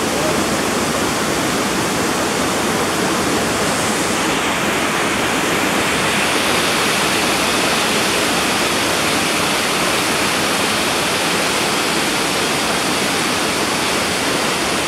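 Waterfall pouring: a loud, steady rush of falling water, close by.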